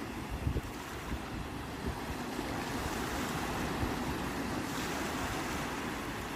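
Sea waves washing and breaking on the shore in a steady rush, with wind buffeting the microphone and a few low thumps about half a second in.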